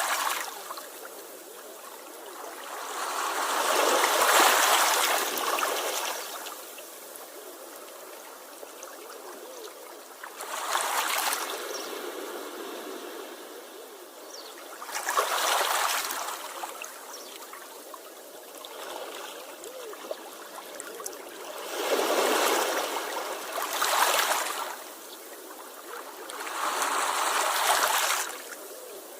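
Sea waves washing onto the shore: a surge of surf every few seconds, about seven in all, with a softer hiss of water draining back in between.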